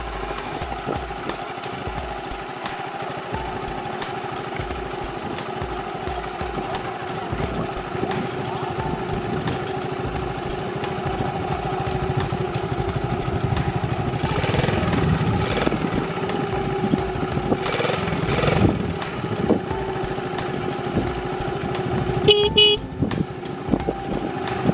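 Honda DAX 70's small single-cylinder four-stroke engine idling steadily, with louder, rougher stretches around the middle. Near the end the bike's electric horn gives one short beep.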